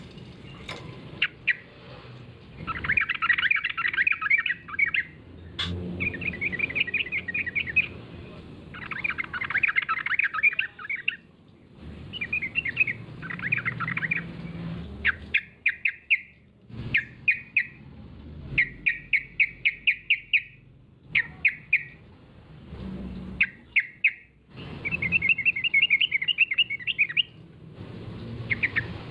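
Yellow-vented bulbul singing in repeated bursts of fast, bubbly chattering notes, each phrase lasting a second or two, with short pauses between.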